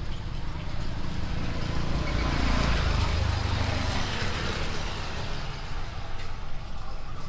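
A low, steady rumble with hiss, swelling about two to three seconds in and easing off again, like a road vehicle passing.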